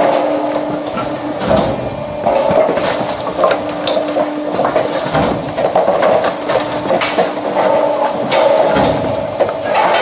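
Firewood processing machine running, with a hum that comes and goes and frequent knocks and clatter of wood being cut and split.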